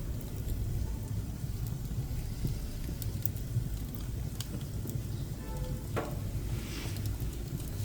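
Pine woodworking offcuts burning in a wood stove: a steady low rumble of the fire, with a few sharp pops and a brief hiss about six seconds in.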